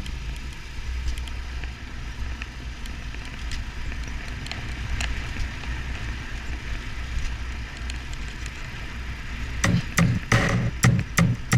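Royal Enfield Himalayan's single-cylinder engine running steadily on the move, a low even rumble. Near the end, music with a drum beat comes in over it.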